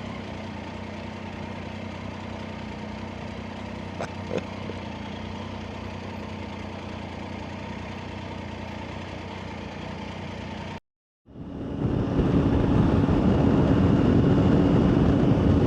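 Motorcycle running along the road: a steady engine drone mixed with wind and road noise. The sound cuts out for about half a second around eleven seconds in, then returns louder with a steady hum over the engine.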